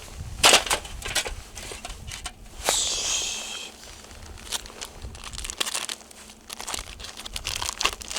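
Crinkly material being crumpled and handled in uneven bursts of crackling, with a longer rasping tear about three seconds in.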